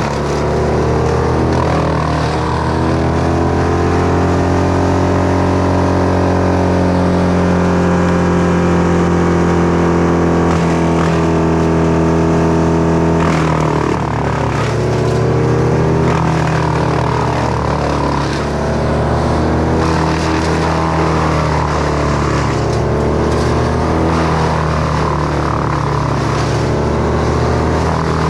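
Chainsaw engine running hard and continuously, its pitch sagging and climbing back twice as the chain takes the load of a cut, over a steady low engine drone.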